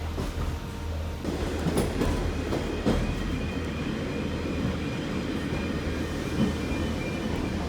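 Heritage railway train running along the track: a steady low rumble with scattered knocks from the wheels, and a faint thin squeal from about three seconds in.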